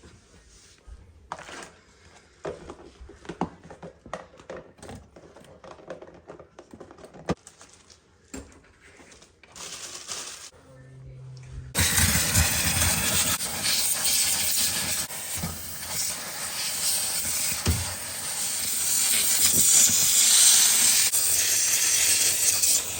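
Light clicks and knocks of parts being handled, then about halfway through a handheld steamer starts a loud, steady hiss, blowing steam onto a frosted refrigerator evaporator to melt the ice.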